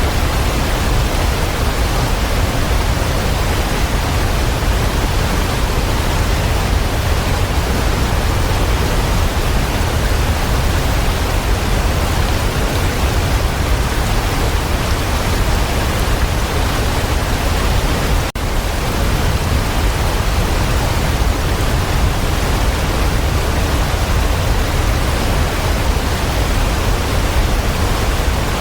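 Waterfall rushing in a steady, full roar of falling water, with a momentary dropout about eighteen seconds in.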